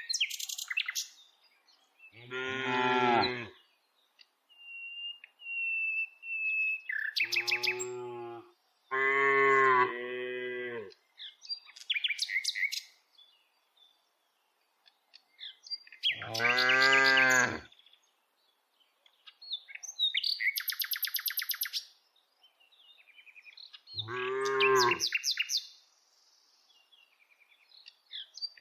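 Cows mooing, about six long, deep calls a few seconds apart, with small birds chirping in the gaps between them.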